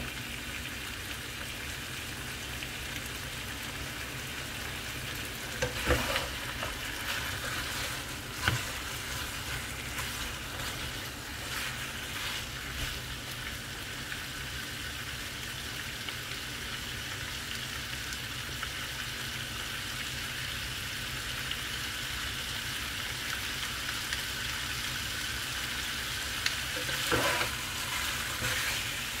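Chicken pieces sizzling steadily as they fry in a pan. A cooking utensil stirs them with occasional knocks and scrapes against the pan, the sharpest about six seconds in, again a couple of seconds later, and near the end.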